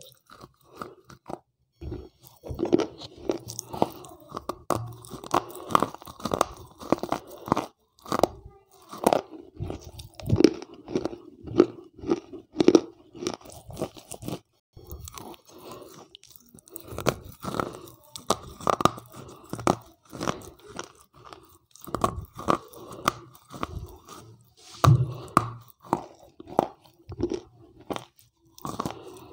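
Close-miked biting and chewing of wet slate pencils: repeated sharp crunches as pieces are bitten off and ground between the teeth, in runs broken by short pauses.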